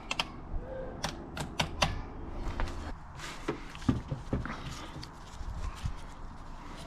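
Hand tools and metal engine parts clicking and clinking irregularly as a motorcycle engine is taken apart.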